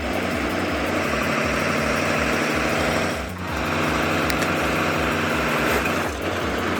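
M923 military truck's six-cylinder diesel engine running, with a low rhythmic pulse; the sound briefly dips about three seconds in and again near the end.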